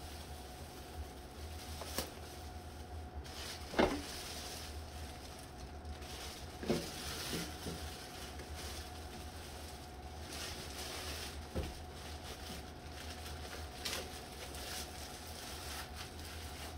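Coffee-maker packaging being handled and cut open: scattered light knocks and rustles, about seven, over a steady low hum.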